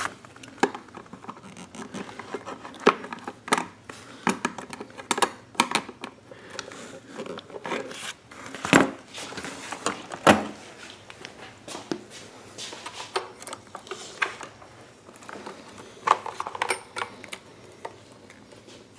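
Hands working wiring and small plastic parts inside a generator's housing: irregular clicks, taps and rustles, with a couple of louder knocks about halfway through.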